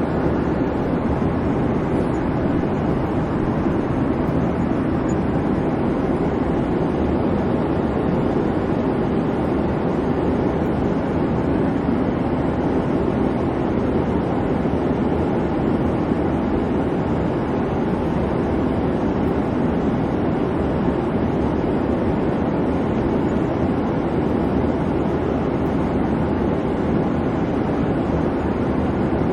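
Airplane cabin noise: the steady, even rumble of the engines and rushing air, strongest in the low-middle range and unchanging throughout.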